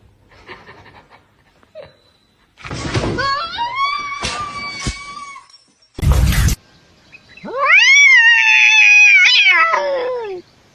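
A cat yowling in two long drawn-out calls, the second louder, rising then falling in pitch. A short burst of noise falls between them.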